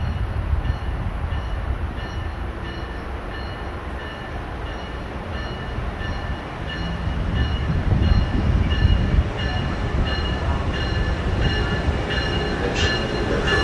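Amtrak Acela Express trainset arriving at a station platform: the train's low rumble grows louder about halfway through as it draws near, while a bell rings steadily about twice a second.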